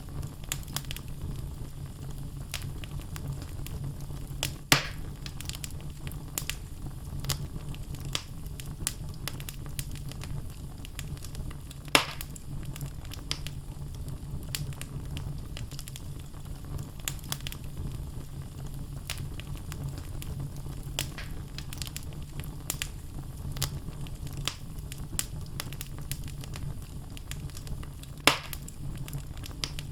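Wood logs burning in a fireplace: a steady low rumble of the flames with frequent small crackles and three louder pops spread through.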